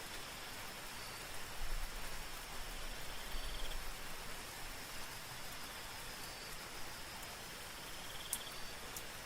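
Soft steady rain hiss with night insects over it: a continuous high-pitched drone, short high chirps every couple of seconds, and a brief trill twice, about three seconds in and near the end. Two sharp ticks come near the end.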